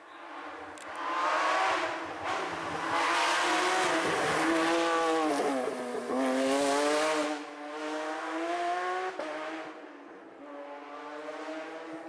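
Rally car engine at high revs going past on a stage. Its pitch drops about halfway through as the car comes off the throttle, then climbs again as it accelerates away and fades.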